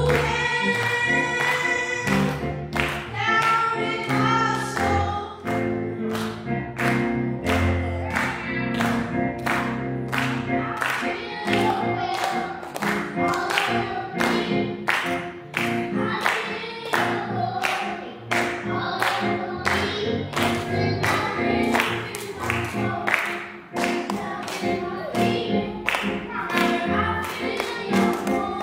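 Congregational worship song: several singing voices over a band, with a steady beat of about two strokes a second.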